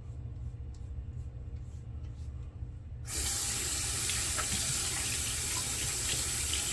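A sink tap is turned on about three seconds in, and water runs steadily from it into the basin, over a low steady hum.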